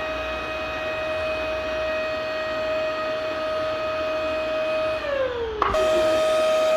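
Vacuum cleaner motor running with a steady whine over a rushing hiss. About five seconds in the whine slides down in pitch for half a second, then snaps back up with a click.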